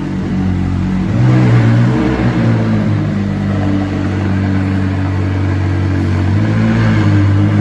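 McLaren twin-turbo V8 supercar engine with an aftermarket Novitec exhaust, running loud at idle after start-up. The engine speed rises briefly about a second in and again near the end, then settles.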